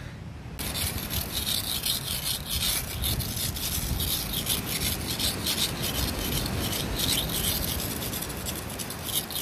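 Continuous fast rasping and scraping, many scratchy strokes a second, starting abruptly about half a second in.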